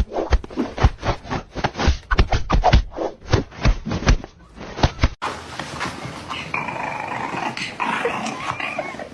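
Dog growling in quick, irregular short bursts; after a cut about five seconds in, a dog whining with a wavering high pitch.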